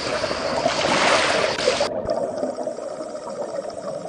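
Rushing water ambience, like a stream or surf, that cuts off abruptly about two seconds in and gives way to a quieter, duller water ambience.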